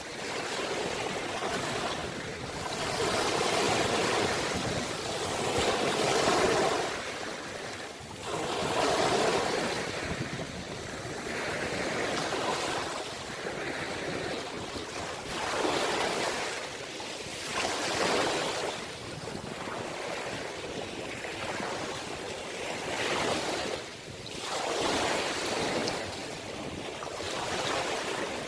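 Ocean waves breaking and washing on the shore, the surf swelling and falling every few seconds, with some wind.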